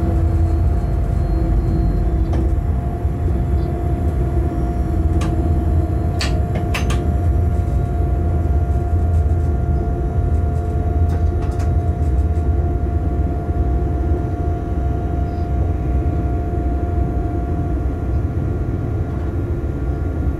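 Cab sound of an electric freight locomotive running at speed: a steady low rumble of wheels on rail with a steady whine that fades out near the end. A few sharp clicks come in the middle.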